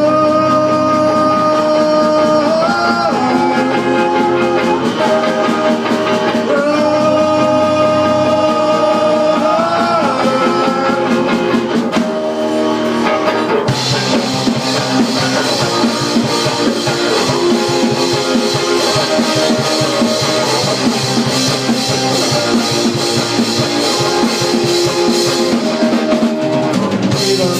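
Live rock band playing an instrumental passage. For the first dozen seconds a lead melody holds long notes, sliding up between them. About 14 seconds in, the drums and cymbals kick in and the full band plays on.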